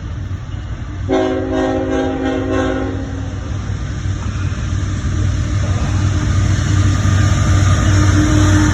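Locomotive air horn sounding one chord-like blast of about two seconds over the low rumble of an approaching train, which grows steadily louder.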